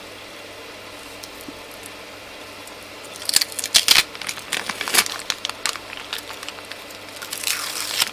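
A steady low hum, then from about three seconds in a run of crinkling, crackling and tearing sounds: tape on the 3D printer's bed being peeled off and crumpled by hand.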